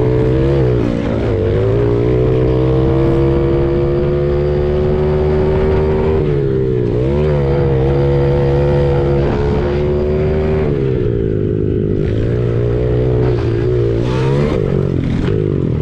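Honda CRF70's small four-stroke single-cylinder engine heard from on board under race throttle, its pitch climbing slowly as it pulls, dipping briefly about six seconds in, then dropping off about eleven seconds in before picking up again.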